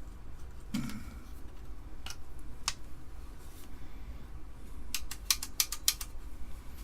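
Sharp clicks and taps of hard plastic and metal parts being handled while an Amiga 500's floppy drive is worked loose. A few single clicks come first, then a quick run of about seven clicks around five seconds in.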